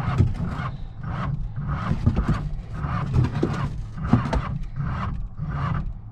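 Classic car engine running rough just after a cold start on poured-in fuel. A low drone sits under a rhythmic rasping chuff, about three a second.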